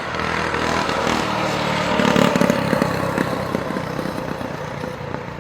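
A motor vehicle passing close by on the road. Its engine and tyre noise swell, peak about two seconds in, then fade away.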